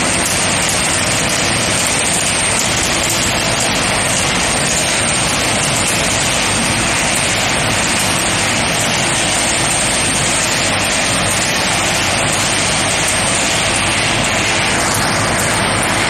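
Induction forging machine running on a production line: a loud, steady machinery drone with a thin high-pitched whine that fades in and out.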